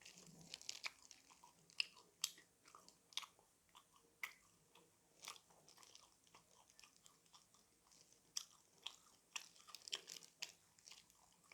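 A person chewing crispy fried chicken close to the microphone, with irregular sharp crunches of the coating between softer chewing.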